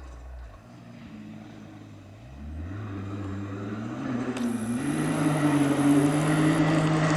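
Rally-raid competition vehicle approaching under acceleration: faint at first, then from about two seconds in the engine note climbs in pitch and grows steadily louder, holding a high, steady note over the last couple of seconds.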